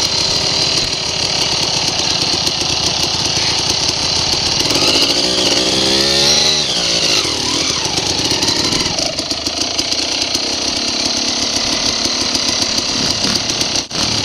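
Dirt bike engines running on the trail with a rapid buzzing beat. One engine revs up and falls back about five to six seconds in.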